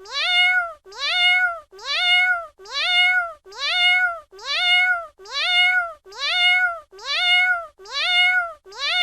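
Domestic cat meowing, the same meow repeated over and over at an even pace of roughly one a second; each call rises in pitch and then holds before dropping off.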